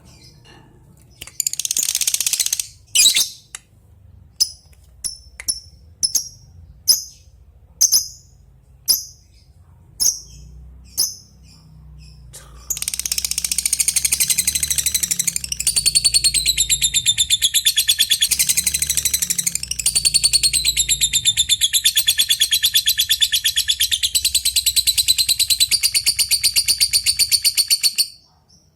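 Lovebird giving short, sharp single chirps about once a second, the 'ngetik' call, then about halfway through breaking into a long, fast rattling chatter, the 'ngekek', that runs about fifteen seconds and stops abruptly.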